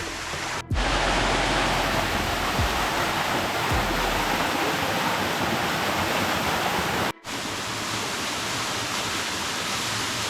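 Water rushing steadily down the Bua Thong sticky waterfall's limestone cascade, cutting out for an instant twice, about a second in and about seven seconds in.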